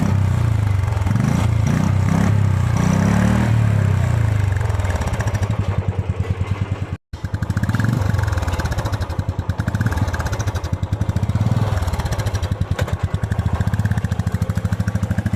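Royal Enfield Classic 350 EFI's single-cylinder engine running through a BS3 stock exhaust silencer. It thumps steadily at idle and is blipped several times, the pitch rising and falling, about one to four seconds in and again around eight seconds. The sound cuts out for a moment about seven seconds in.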